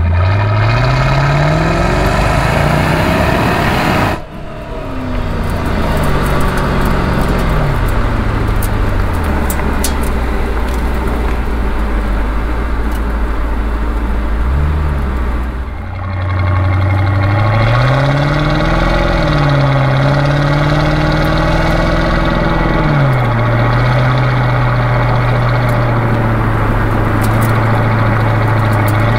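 Mercedes-Benz SL500's 5.0-litre V8 pulling the car along with the top down. The engine note climbs, falls away and holds, then climbs again and drops with a gear change, over steady wind and road noise.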